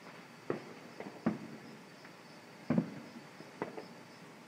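Fireworks bursting: a series of sharp bangs, about seven in all, some in quick pairs, the loudest about two-thirds of the way in.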